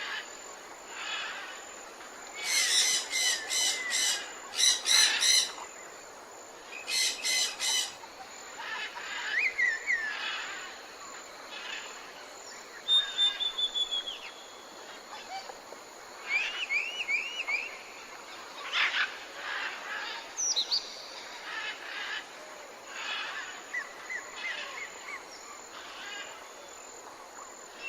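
Several wild birds singing and calling at once over a steady background hiss: short chirps, whistled rising and falling notes and brief trills. The loudest part is a series of rapid, rasping repeated calls in the first eight seconds or so.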